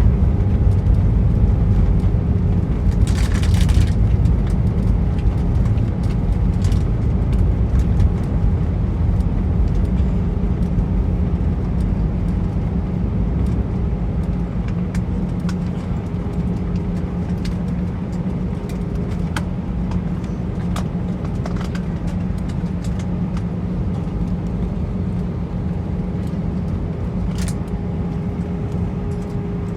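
Cabin noise of an Airbus A320-214 after landing: a steady low rumble of the rolling aircraft with a constant engine hum, slowly getting quieter as it slows. A few light clicks and rattles sound over it.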